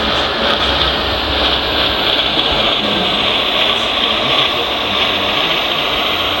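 Steady mechanical whirring and hiss from radio-controlled model construction machines, their electric drive motors and hydraulic pumps running continuously.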